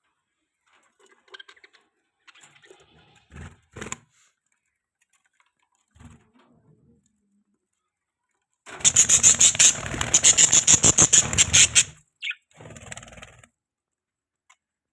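Pet budgies: faint scratches and small sounds, then a loud, rapid rustling burst lasting about three seconds starting around nine seconds in, followed by a short chirp and softer rustling.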